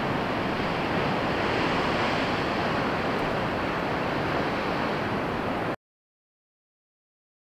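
Ocean surf rushing steadily, then cutting off abruptly to dead silence about six seconds in.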